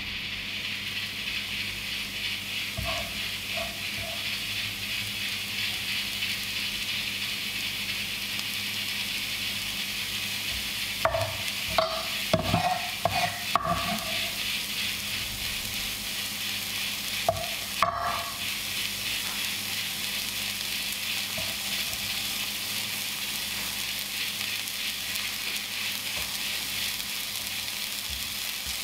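Chive and egg pancake batter sizzling steadily in a hot oiled pan. A utensil clinks against the pan several times in quick succession midway, and twice more a few seconds later.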